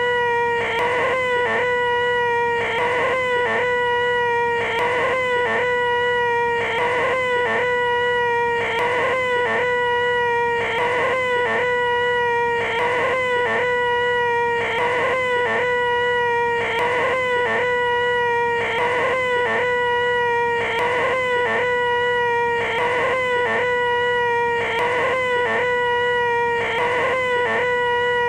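A man's voice making the 'most annoying sound in the world': a flat, nasal 'eeeeeh' held at one steady pitch, repeated over and over with a short break about every two seconds.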